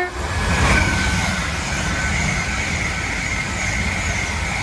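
Class 222 Meridian diesel multiple unit passing close at speed: a steady loud rush of wheels on rail and underfloor diesel engines with a high whine over it. The last instant of its horn sounds right at the start.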